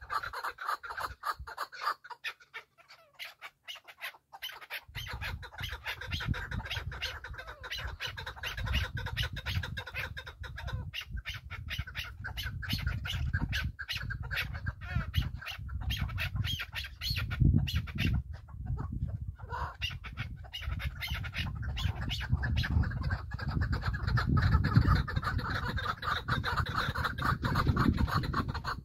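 A small gamebird calling in a fast, continuous run of short notes, with a low rumble coming in about five seconds in.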